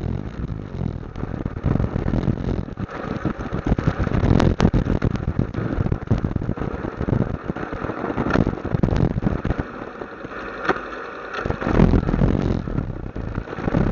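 Motorcycle engine running on the road, an uneven rumble that drops back briefly about three-quarters of the way through.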